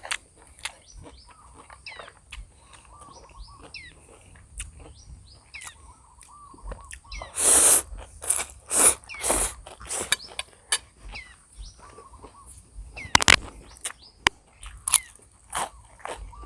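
A person eating instant noodles close to the microphone: chewing, with several loud noisy bursts about halfway through. Small birds chirp throughout in the background.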